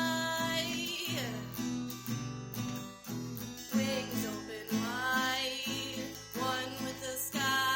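An acoustic guitar song: strummed guitar in a steady rhythm under long, wavering sung notes.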